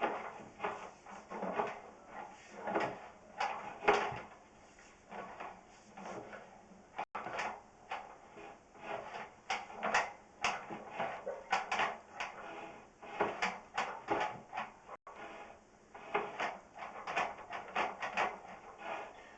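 Sewer inspection camera's push cable being fed down a vent pipe, rubbing and knocking in quick, uneven strokes.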